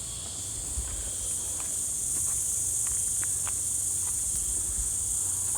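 Steady high-pitched insect chorus over a low rumble of wind and handling on the microphone, with a few faint short chirps in the middle.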